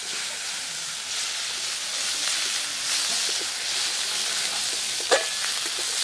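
Spice masala with freshly added ginger and green chilli paste sizzling in hot oil in a metal wok, stirred with a metal spatula: a steady, loud hiss. A brief sharp sound stands out about five seconds in.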